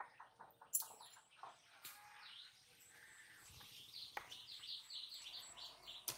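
Faint bird calls: a rapid series of short, high chirps, several a second, building from about two seconds in. A few light clicks come in the first half.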